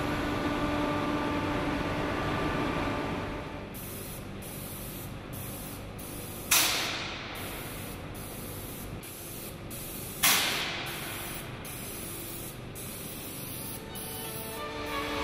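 Compressed-air spray gun hissing as the waterwheel blades are sprayed, first in a steady stream, then in quick repeated bursts as the trigger is pulled and released, with two louder sudden blasts of air.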